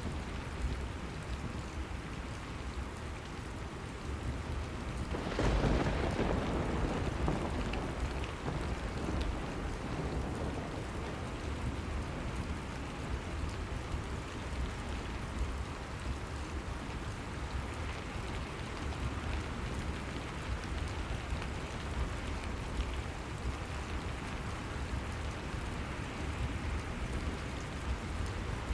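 Steady rain falling, with a louder swell about five seconds in that fades away over the next few seconds.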